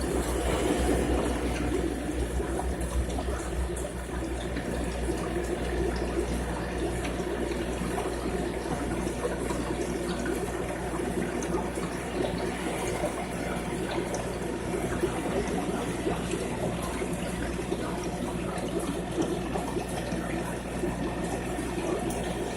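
Aquarium water running and splashing steadily from the tank filtration, with a steady low pump hum underneath.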